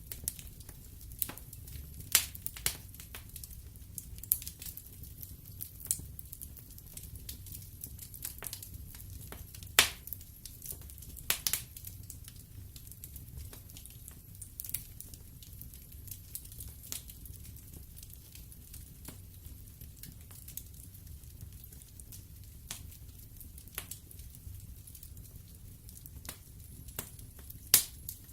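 Wood fire burning in a fireplace: irregular sharp crackles and pops of burning logs, the loudest pops about two, ten, eleven and a half and twenty-eight seconds in, over a steady low rumble of the flames.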